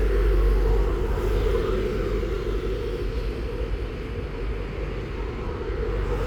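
A steady low rumble that eases off slightly over the first few seconds.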